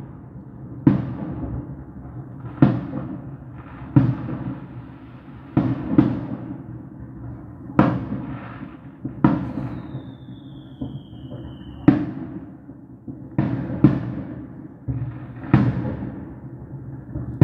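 Fireworks display with aerial shells bursting overhead: a sharp bang about every second and a half, each trailing off in a rumbling echo. About midway a high whistle slides down in pitch for two seconds or so.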